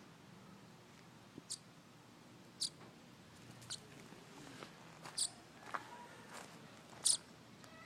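Young bird that has fallen from its nest chirping: short, high-pitched peeps, about six of them, one every second or so.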